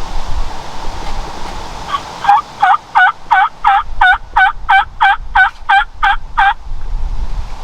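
Turkey yelping: a run of about a dozen evenly spaced yelps, about three a second, starting about two seconds in, over steady wind noise.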